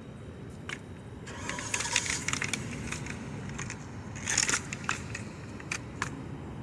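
Crunching, crackling and clicking handling noises in two short clusters, about a second and a half in and again near four seconds in, over a steady low rumble.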